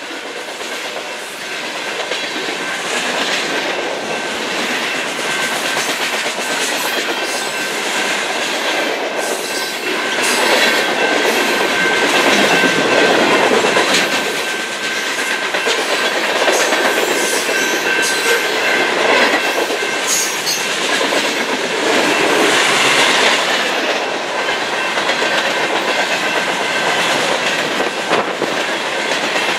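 Freight cars of a long BNSF mixed train rolling past: a steady rumble and clatter of steel wheels on the rails, growing a little louder about a third of the way in, with a thin high whine running through it.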